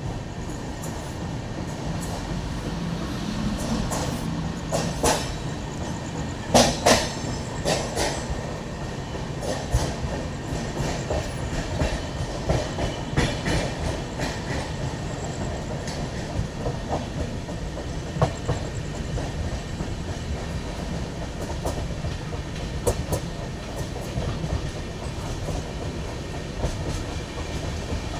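Indian Railways passenger coach rolling along the track, heard from inside: a steady low rumble with irregular clacks of the wheels over rail joints, the loudest clacks about six to eight seconds in.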